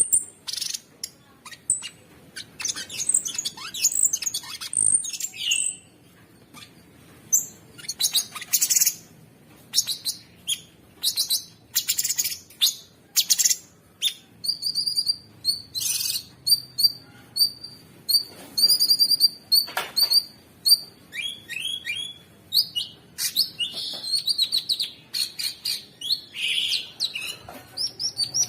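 Cucak sungkok songbird singing a fast, harsh, non-stop string of chirps, trills and whistles. About halfway through comes a run of short repeated notes at one pitch.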